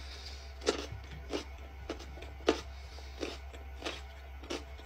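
Close-up chewing of a crisp raw carrot: a crunch about every two-thirds of a second.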